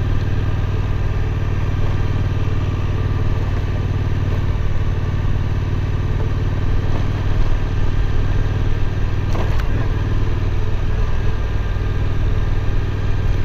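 Suzuki V-Strom 1050's V-twin engine running at a steady pitch while the motorcycle is ridden, with a brief knock about nine and a half seconds in.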